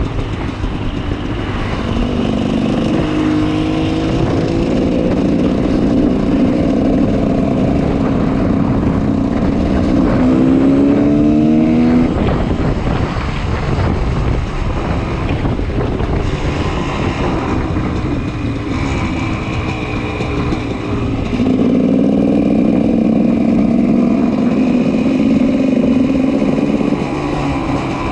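2004 GasGas 300 EC two-stroke engine with an FMF Powercore 2 exhaust running, its pitch rising as it revs up about ten seconds in, then holding louder at higher revs for several seconds near the end.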